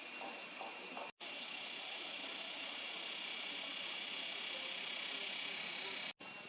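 Steady high hiss of outdoor background noise, with no distinct calls. It drops out abruptly twice, and the middle stretch between the dropouts is a little louder.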